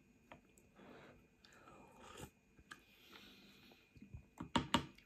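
Close-up eating sounds: a person sipping noodle-soup broth from a spoon and chewing a mouthful of noodles and vegetables. A few sharp wet clicks near the end are the loudest sounds.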